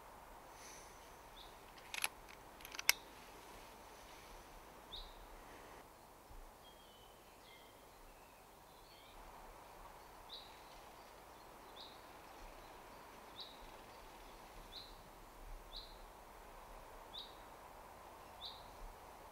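Faint woodland ambience with a bird repeating one short high call about every second and a half, and other bird notes in between. Two sharp clicks a little under a second apart come about two seconds in.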